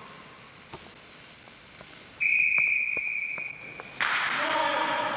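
A long, steady, high whistle blast about two seconds in, lasting nearly two seconds, followed about four seconds in by a crowd cheering and shouting.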